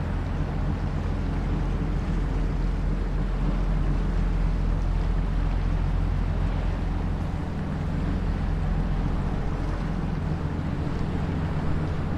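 Steady low drone of a river sand barge's engine running, with wind rumbling on the microphone.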